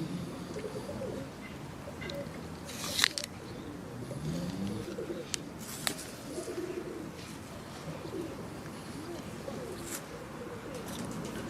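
Birds calling with low, wavering cooing notes, broken by a few sharp clicks; the loudest click comes about three seconds in.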